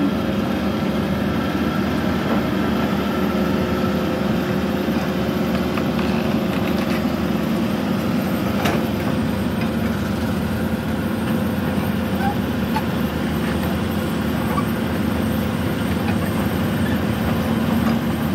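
A Komatsu PC200 excavator's diesel engine running steadily, a continuous low drone with no hammering.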